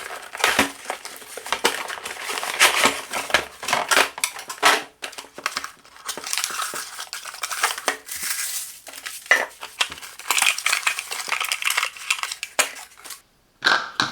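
Cardboard box and packaging being opened and unpacked by hand: irregular rustling and crinkling of cardboard and plastic with many small knocks and clicks.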